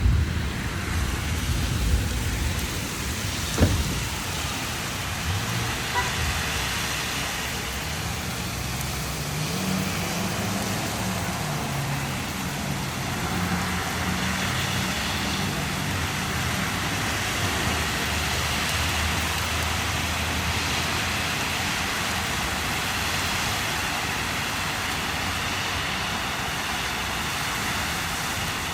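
Heavy rain with traffic passing on a wet road: a steady hiss of rain and tyres, a sharp knock about three and a half seconds in, and a vehicle engine's hum that rises and falls roughly a third of the way through.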